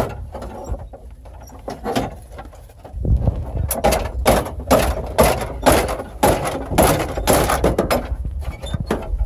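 A truck dashboard being pried and torn apart by hand: a run of cracking and scraping strokes, about two a second, starting about three seconds in.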